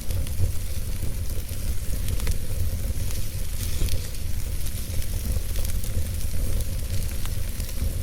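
Wood fire burning with a steady hiss and scattered sharp crackles and pops, over a steady low rumble.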